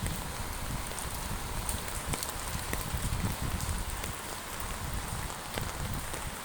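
Heavy rain falling steadily, a constant hiss dotted with many separate drop ticks, over an uneven low rumble.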